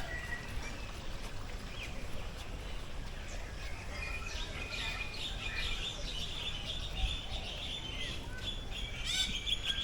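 Many birds chirping and twittering together, a chorus of short overlapping calls that grows denser about halfway through.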